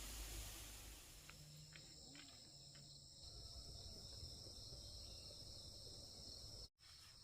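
Faint insect chorus: a steady, high-pitched chirring drone, with a few faint ticks in the first few seconds and a brief dropout near the end.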